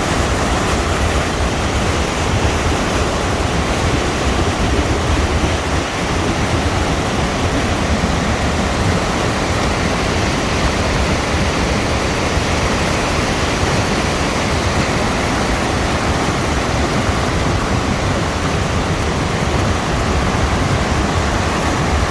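Flood-swollen river water rushing: a loud, steady noise without let-up, heaviest in the low range.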